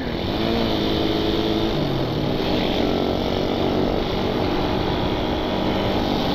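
Suzuki Satria FU 150's single-cylinder four-stroke engine pulling under way, its pitch climbing, dropping about two seconds in as it shifts up, then climbing again, with road and wind noise.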